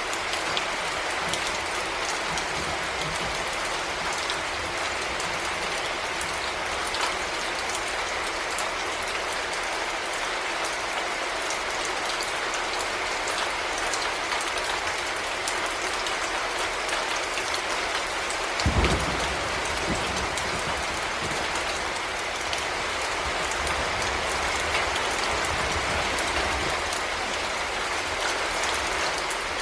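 Heavy rain falling steadily, with individual drops ticking on a surface. About two-thirds of the way through there is a single short low thump.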